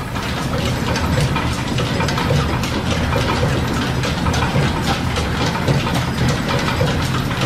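Metal lathe running off a steam-engine-driven workshop drive: a steady mechanical rumble with a quick, light clatter throughout.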